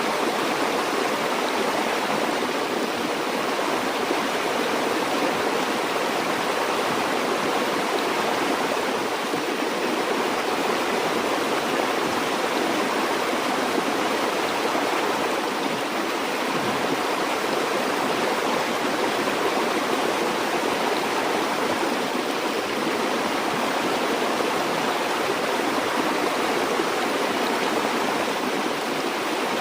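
A river or stream flowing steadily, a continuous even rush of water with no change.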